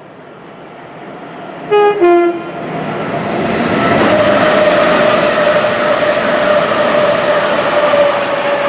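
An approaching train sounds a two-tone horn: a short high note, then a lower one. It then passes at speed with a loud rush of noise and a steady whine that sinks slightly in pitch.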